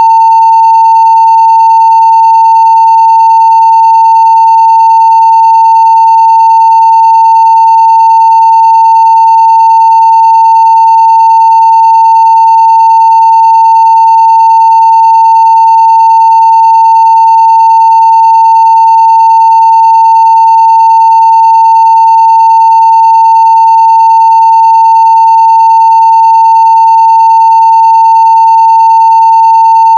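A 900 Hz sine-wave test tone at full scale (0 dB), one loud, steady pitch held without a break, with only very faint higher overtones.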